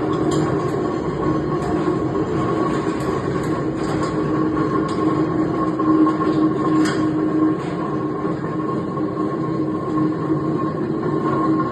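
40-litre tilting wet grinder running: a steady mechanical hum with a constant tone, and faint clicks scattered through the first half.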